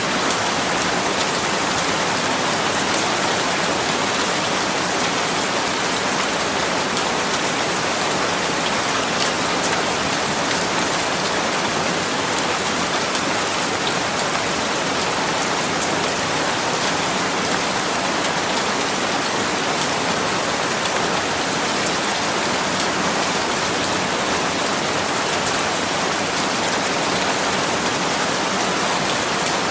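Steady rain falling on a surface, an even hiss with fine patter of drops, unchanging throughout.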